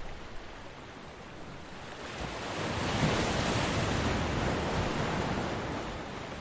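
Ocean surf: a wave builds about two seconds in, breaks with a wash of noise a second later, then slowly recedes.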